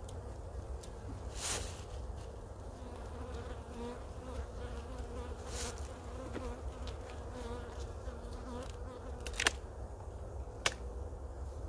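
Honeybees buzzing in a steady, wavering hum around an opened hive. A few sharp knocks stand out, the loudest near the end.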